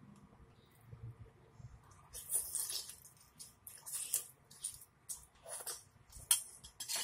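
Close-miked chewing and wet mouth sounds of someone eating boiled lobster tail meat: short crackly smacks come in clusters from about two seconds in, with one sharper click near the end.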